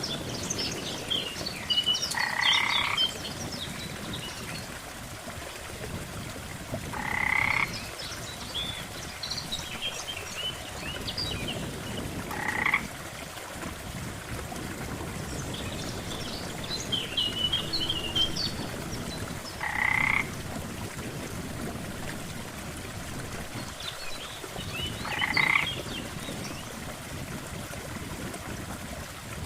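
Frogs croaking at a lake: five loud croaks, each under a second long, come about every five seconds, amid a scatter of higher, quicker chirps from other callers. A steady low background wash runs underneath.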